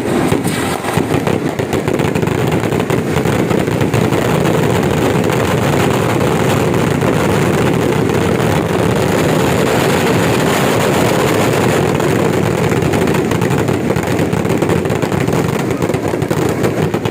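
A long run of firecrackers going off, a loud, continuous dense crackle over a low rumble with no break.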